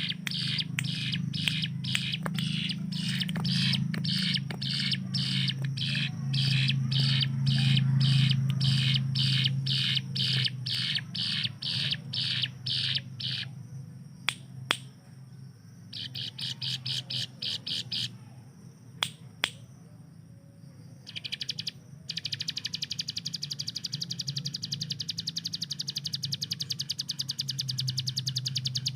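Ciblek gunung, a prinia, singing: rapid strings of sharp high chirps, about three a second, then after a few pauses and clicks a very fast rattling trill near the end, over a steady low hum.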